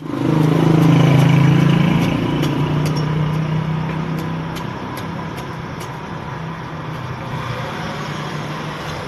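A motor vehicle engine running, loudest in the first two seconds and then fading, with a few faint clicks.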